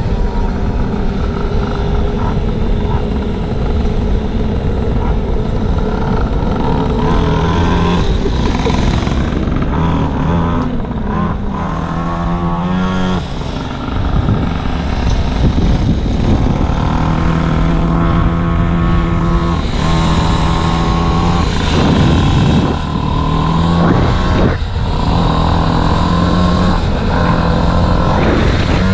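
Pocket bike's small gasoline engine running and revving, its pitch rising and falling again and again as the throttle opens and closes.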